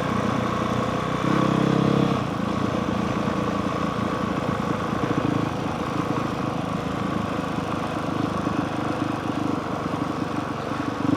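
Honda CRF450R single-cylinder four-stroke dirt bike engine running at moderate, steady revs while riding, louder for a moment between about one and two seconds in before settling back.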